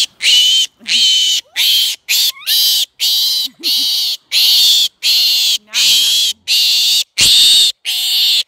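Pig squealing, loud and high-pitched, in a rapid string of short screams at about two a second.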